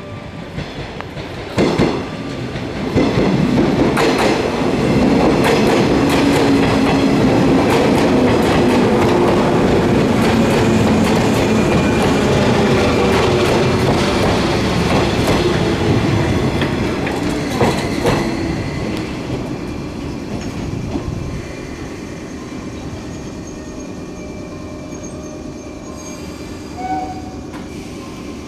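115 series electric multiple unit pulling into a station. Its running noise and the clack of wheels over rail joints build up a few seconds in and are loudest as the cars roll close past. The sound then dies down as the train slows to a stop, leaving a lower steady sound.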